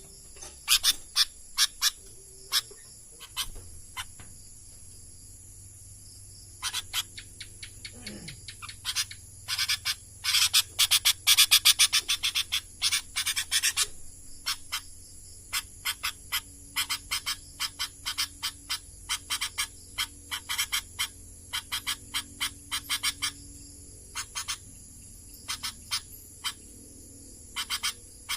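Sooty-headed bulbul calling in quick runs of short, sharp chirps, coming in bursts with pauses between and densest about halfway through.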